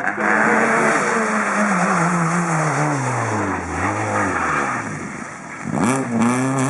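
Rally car engine at high revs passing close by, its pitch falling steadily as it goes past and away. About six seconds in, an engine note rises sharply again as a car accelerates.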